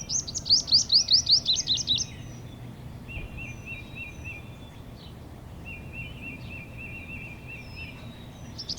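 Purple sunbird calling: a fast run of sharp, high, down-slurred notes, about six a second, for the first two seconds and again near the end. A softer, lower rippling trill comes twice in between.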